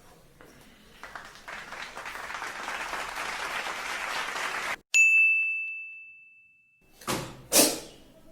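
A hiss swells for a few seconds and cuts off suddenly. A single bell-like ding then rings out and fades over about two seconds. Near the end come two short, sharp noisy bursts.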